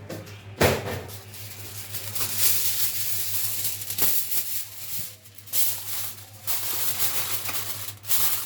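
Aluminium foil crinkling and rustling as it is pulled off the roll and pressed over a baking tray, with a sharp crack about half a second in.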